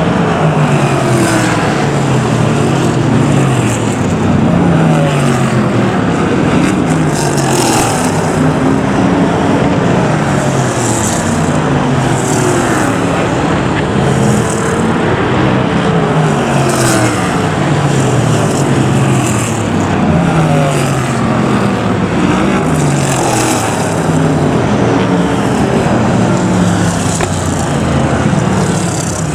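A pack of BriSCA F1 stock cars' V8 engines racing round an oval, revving up and easing off over and over as cars pass in turn.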